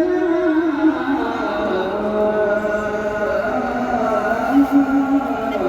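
A solo voice chanting in long, ornamented held notes that waver and slide between pitches, in Arabic devotional style.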